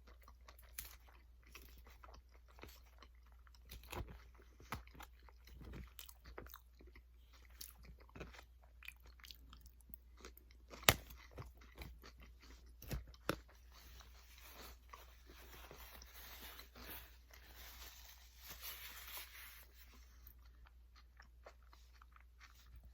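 A person chewing and crunching food close to the microphone, with many small irregular clicks and a few sharper ones about 11 and 13 seconds in. A faint hiss sits under the middle of it.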